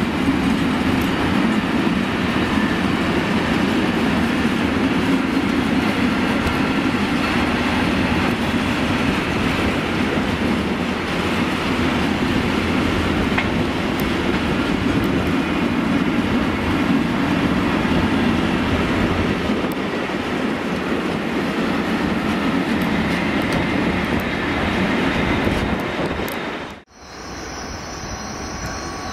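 Long freight train of curtain-sided wagons rolling past close by at steady speed: continuous wheel-and-rail noise with some clickety-clack over the rail joints. It cuts off abruptly about 27 seconds in, giving way to quieter rail sound from farther off.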